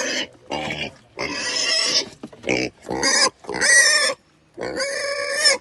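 A domestic pig calling: a string of about seven short, harsh calls with brief pauses between them.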